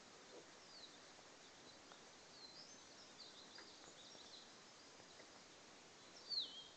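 Near-silent outdoor ambience with faint wild birds calling: scattered high chirps and twitters, then one clearer whistle near the end that slides down in pitch and levels off.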